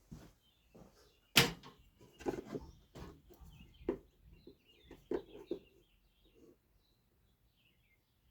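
A string of sharp knocks and clatters, the loudest about a second and a half in, as a ruler and tools are picked up and set down. Faint bird chirps behind.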